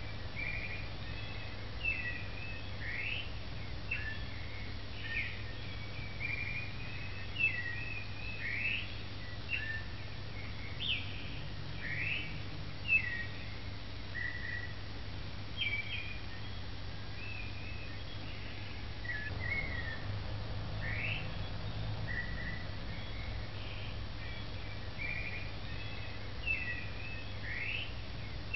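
Birds chirping, with short chirps and quick rising whistles every second or so over a steady low hum.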